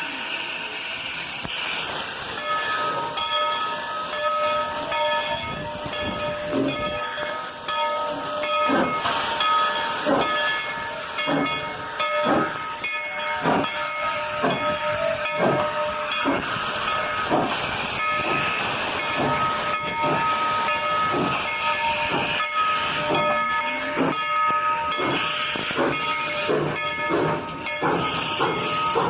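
Narrow-gauge steam locomotive working, with a steady hiss of steam and exhaust chuffs about once a second from a few seconds in. Steady high-pitched ringing tones run over it, breaking off briefly a few times.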